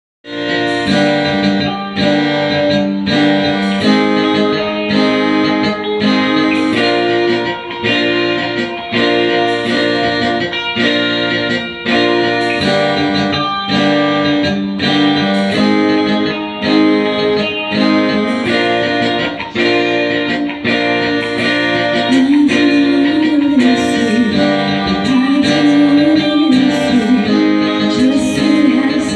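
Band music: a guitar plays chords in a steady, repeating rhythm, and a wavering melody line comes in about two-thirds of the way through.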